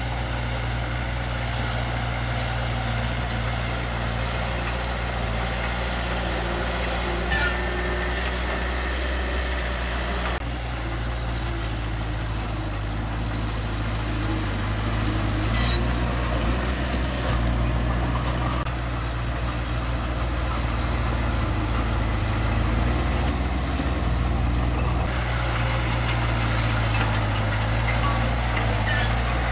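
Heavy diesel earthmoving machinery running steadily with a low drone, with a few short clanks and squeaks, several of them bunched together near the end.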